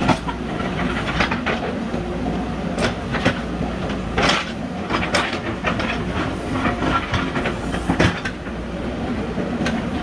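JCB backhoe loader's diesel engine running steadily under load, with irregular metallic clanks and knocks from the working machine.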